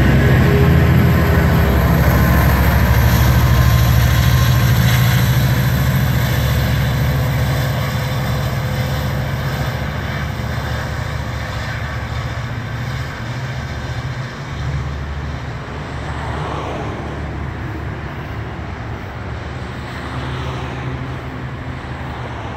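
Metrolink diesel commuter train rolling past and pulling away: a steady low rumble with wheel and rail noise, loudest at first and fading gradually as the train recedes.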